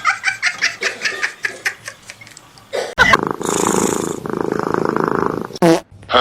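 Rapid bursts of laughter, then an abrupt cut about three seconds in to a cat's loud, steady rumble lasting a couple of seconds, followed by a short high call near the end.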